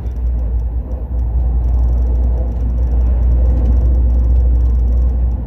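Al Boraq high-speed train running, heard inside the passenger carriage as a steady low rumble that grows louder about a second and a half in.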